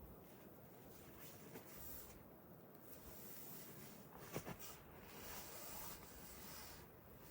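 Near silence: faint background hiss with a few soft taps, the clearest a little over four seconds in.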